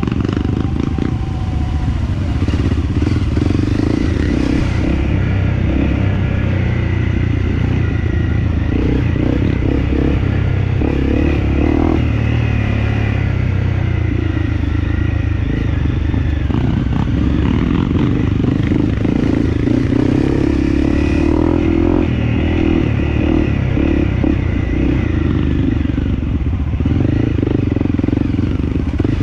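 Dirt bike engine running continuously while being ridden along a trail.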